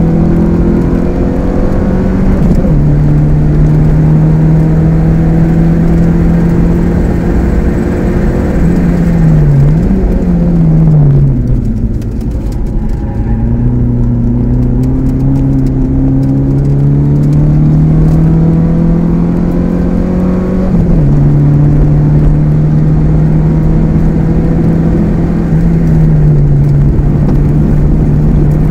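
Opel Ascona C's 2.0-litre eight-valve C20NE four-cylinder engine heard from inside the car on a track lap, pulling hard in gear. Its note drops at gear changes, dips and jumps as the car slows for a corner about ten seconds in, then climbs in a long pull out of the corner, with more drops at shifts near the end.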